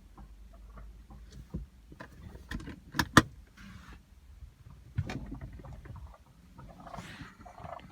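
Wild turkey pecking at the car: two sharp knocks in quick succession about three seconds in, and another about two seconds later.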